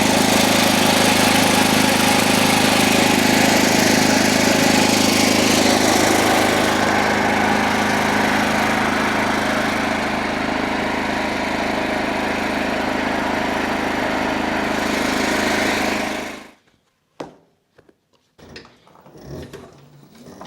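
Small portable generator engine running steadily under load, then cutting off suddenly about three-quarters of the way through, followed by a few faint knocks.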